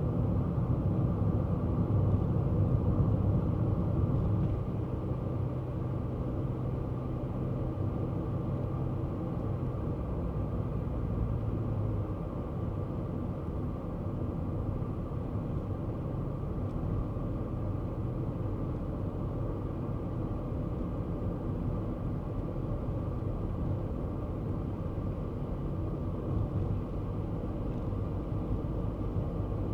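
Kei car on the move, its small engine running under steady road and tyre rumble. A little louder for the first four seconds or so, then an even cruise.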